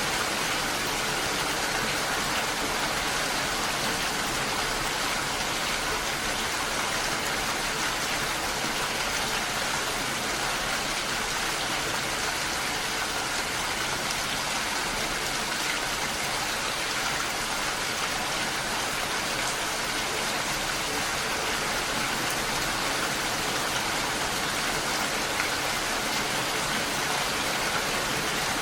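Steady rain falling without a break, an even hiss of many drops.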